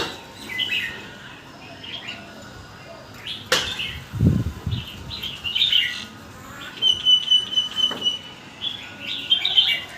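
Red-whiskered bulbul singing short chirpy phrases in quick succession, with a brief steady trill partway through. A sharp knock and a low thud come about three and a half to four seconds in.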